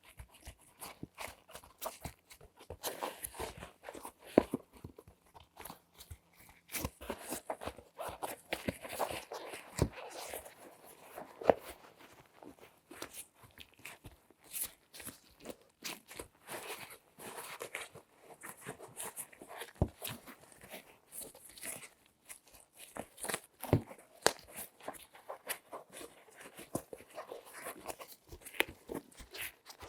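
Close-miked latex-gloved hands handling objects: a dense run of crinkles, crunches and taps, with a few sharper knocks.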